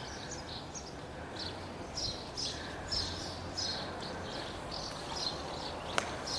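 Small birds chirping, short high chirps several times a second, over a low steady outdoor hum. A single sharp click sounds about six seconds in.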